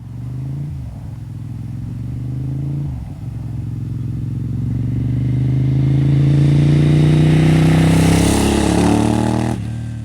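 Suzuki SV1000S 996 cc V-twin through Two Brothers slip-on exhausts, accelerating hard through two quick gear changes and growing louder. The pitch drops near the end as it passes.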